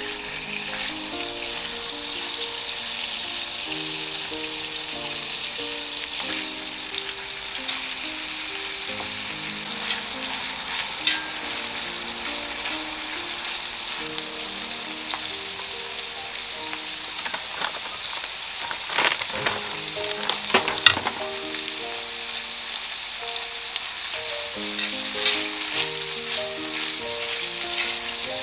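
Bacon and chopped green onion sizzling steadily in hot fat on a cast-iron griddle, making scallion oil. Metal tongs click and scrape against the pan a few times, most around two-thirds of the way through. Soft background music with a melody plays under the sizzle.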